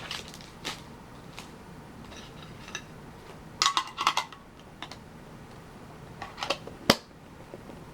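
Handling of Pokémon card mini tins and packs: scattered light clicks and rustles, a quick cluster of crinkles a little past the middle, and one sharp tap near the end.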